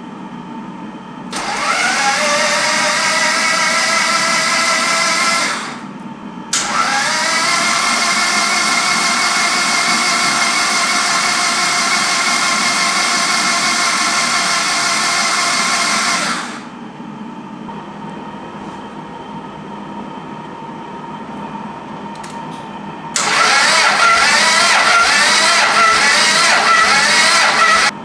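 Toyota MR2 (SW20) starter motor cranking the engine in three start attempts: about four seconds, about ten seconds, and about five seconds long. Each time the whine rises in pitch as the starter spins up, then holds steady; in the last attempt it wavers.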